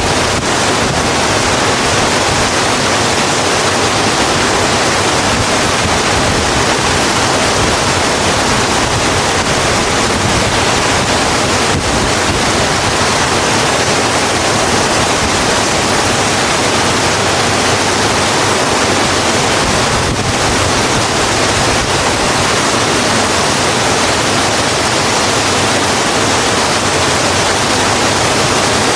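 Steady heavy rain falling on a road, a dense, even hiss with no separate drops or thunder standing out.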